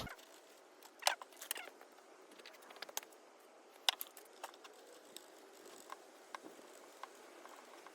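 Scattered light clicks and clinks of a hand wrench working a stubborn, seized muffler nut loose on a small two-stroke engine, a few sharper clicks in the first half and lighter ticks after.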